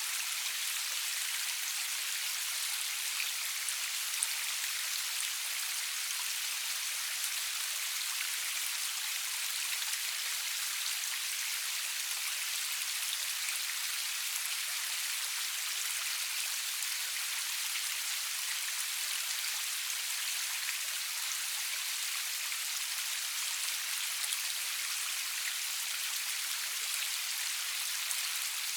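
Steady rain falling, an even hiss of many drops with scattered small pattering ticks, no thunder.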